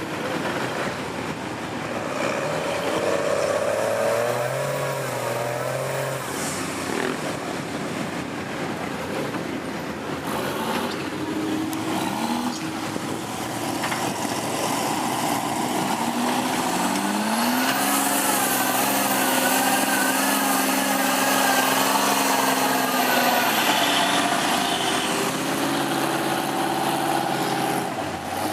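Diesel truck engines revving, the pitch climbing and falling; a longer hard rev climbs partway through and holds for several seconds before dropping.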